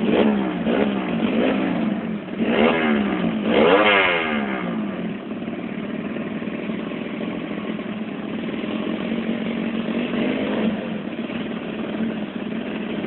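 CB-class drag bike engine revving: several quick rises and falls in pitch in the first few seconds, the strongest about four seconds in, then running more steadily with a smaller rev near ten seconds.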